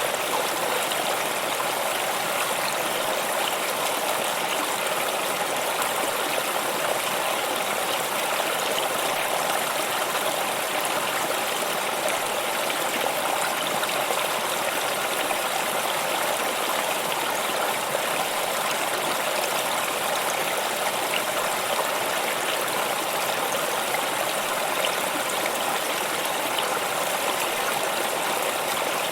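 Water stream flowing over stones: steady babbling and trickling that does not change.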